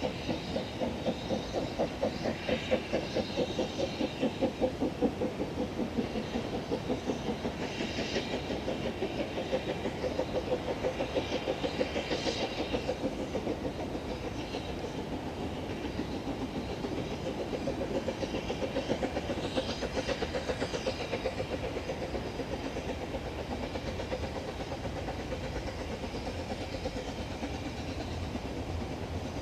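Narrow-gauge steam locomotive working a train, with a steady, rapid rhythm of beats and a few short bursts of higher hiss.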